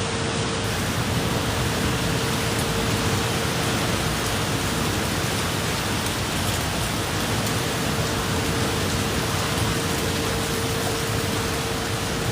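Steady rainfall: an even, unbroken hiss with a faint steady hum underneath.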